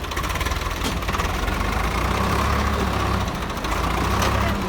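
Swaraj 855 tractor's three-cylinder diesel engine running at idle, a steady low rumble that grows a little louder over the first two seconds.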